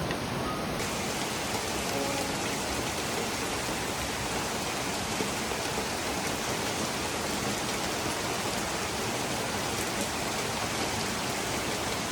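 Steady rain falling, an even dense hiss with no break.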